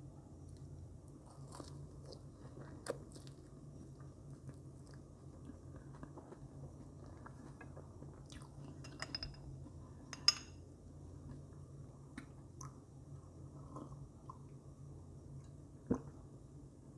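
Close-up chewing of marshmallows, with soft, irregular mouth sounds. A few sharp clicks stand out, the loudest about ten seconds in.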